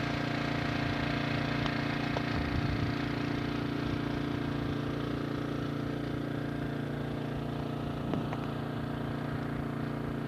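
Small portable generator's engine running steadily with an even hum, with a couple of faint knocks or crunches.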